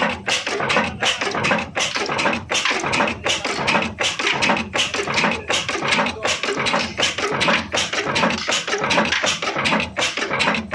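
Old Ruston Hornsby diesel engine running, its exhaust beating in an even, rapid chugging.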